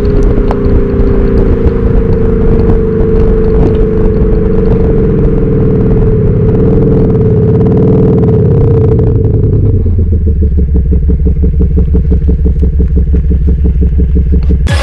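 Engine and exhaust note of a Mercedes-Benz C-Class Cabriolet with a Maxhaust Soundbooster active-sound speaker playing a Maserati-style sound profile. The note runs steadily, dips and rises in pitch around the middle, then drops to a lower, rhythmic pulsing note about two-thirds of the way through.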